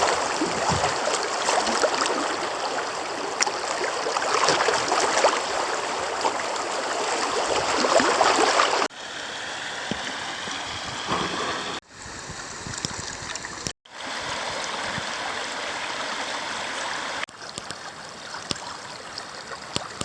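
Creek water running and gurgling over riffles. It is louder at first, drops abruptly about nine seconds in, and then shifts sharply a few more times.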